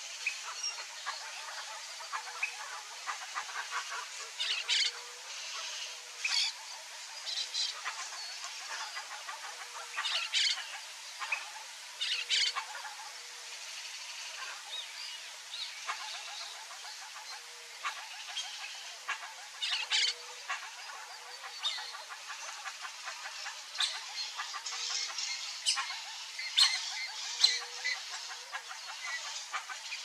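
Birds chirping: short, sharp, high calls scattered irregularly throughout, over a steady background hiss, with faint short low notes now and then.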